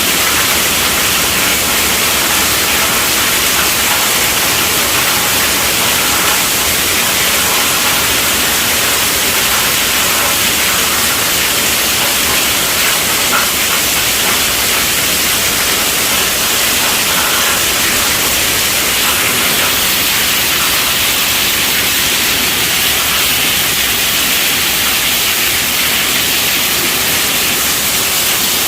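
Steady rainfall: a dense, even hiss of countless drops, strongest in the upper range.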